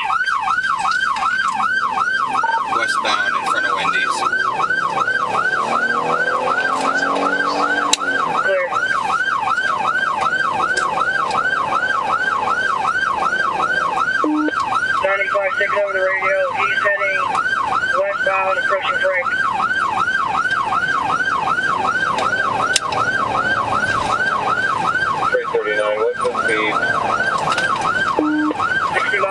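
Police car siren in a fast yelp, sweeping up and down a little over twice a second without a break.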